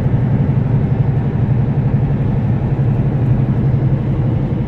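A semi truck's diesel engine and road noise making a steady low drone inside the cab while driving.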